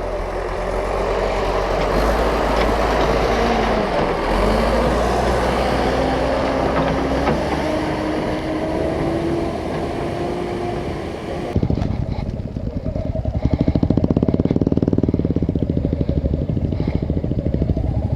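Motorcycle engine running while riding off-road, its pitch rising and falling with the throttle. About two-thirds of the way through it changes abruptly to a closer, steady low-speed chugging with distinct firing pulses.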